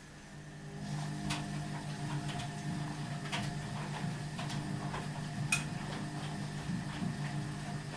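Ardo washing machine running: a steady motor hum comes on right at the start and builds over the first second, with scattered clicks and knocks over it.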